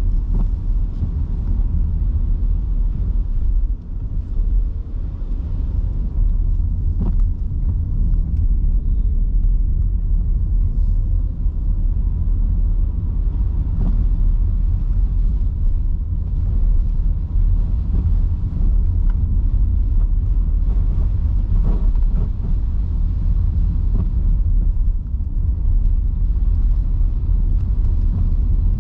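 Steady low rumble of tyre and road noise heard inside a car driving on rain-soaked city streets, with a few faint clicks scattered through it.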